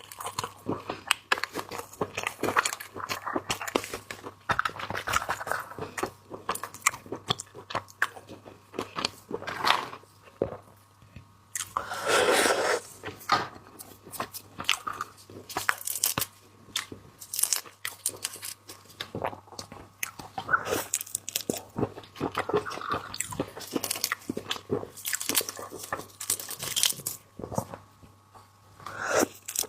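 A person eating seafood: irregular biting, crunching and chewing with many sharp clicks, and one longer, louder noise about twelve seconds in.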